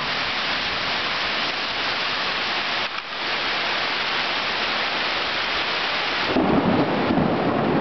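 Heavy tropical rain pouring down on rainforest foliage, a dense steady hiss. Near the end a louder, deeper rumble comes in over the rain.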